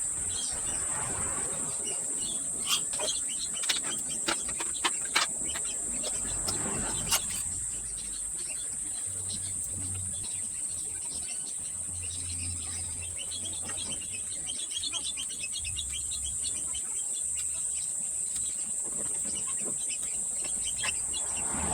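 Insects chirring steadily in one continuous high-pitched drone. Several sharp taps or clicks come about three to seven seconds in, and there are faint bird chirps.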